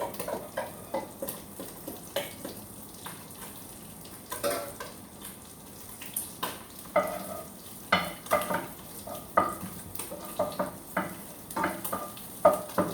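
Garlic sizzling in hot oil in a pan, with a metal utensil stirring and knocking against the pan in frequent clanks and clinks.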